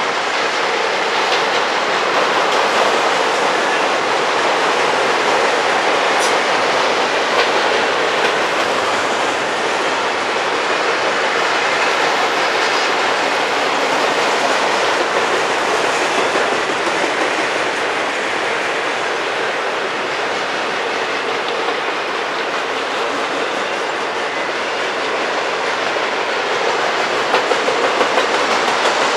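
Union Pacific freight train's autorack cars rolling past: a steady rumble of steel wheels on rail with clickety-clack, and a quick run of clicks near the end.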